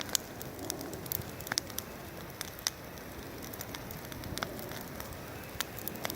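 Bonfire crackling, with irregular sharp pops and snaps over a steady low rustle of burning.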